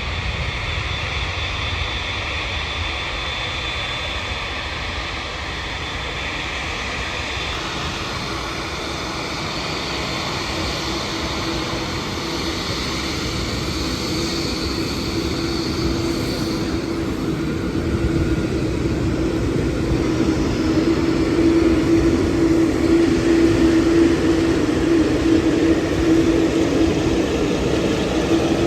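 Jet airliner engines running, with a high whine in the first half and a low steady hum that builds as the sound grows louder over the last ten seconds.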